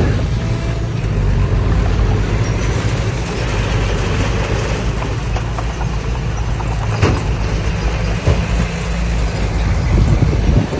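Heavy earthmoving machine's diesel engine running steadily, with a few sharp metal clanks, one about seven seconds in and more near the end.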